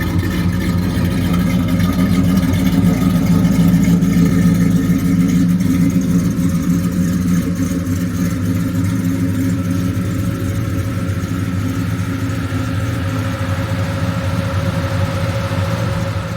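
A 1983 Chevy C10 pickup's engine running steadily, its low rumble easing a little about five seconds in.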